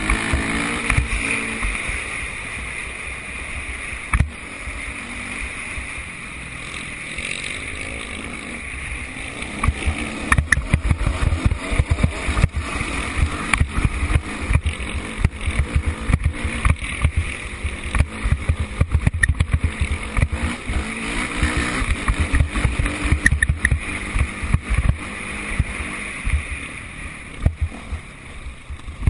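Motocross motorcycle engines running on the track, one revving with a gliding pitch near the start, with wind buffeting the microphone throughout.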